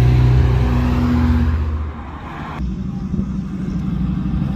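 Cars driving slowly past: a small hatchback's engine revving as it goes by, then, after a sudden cut a little past halfway, the deeper steady rumble of a 1960s full-size Oldsmobile's V8 rolling closer and growing louder.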